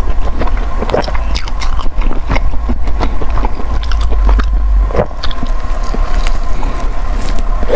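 A person biting and chewing food close to the microphone, with many short smacking and clicking mouth sounds, over a steady low hum.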